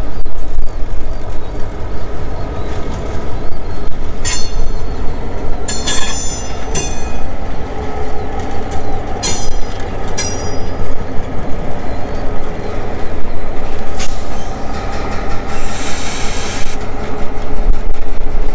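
Ohio Central freight train with its diesel locomotive moving slowly past on the near track: a steady low rumble, with short high-pitched wheel squeals several times from about four seconds in and a longer squeal near the end.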